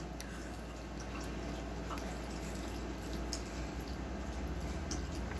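A person chewing a bite of grilled cheese sandwich: faint, scattered wet mouth clicks over a low steady hum.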